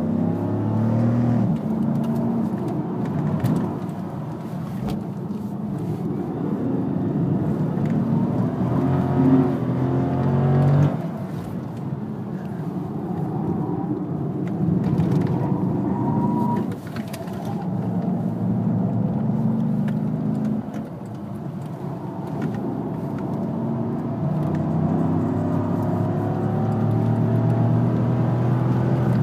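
Chrysler 300 SRT's HEMI V8 heard from inside the cabin while it is driven hard on a hot lap: the revs climb under full acceleration and drop off sharply three times as the driver lifts or brakes for corners, then climb again near the end on the straight.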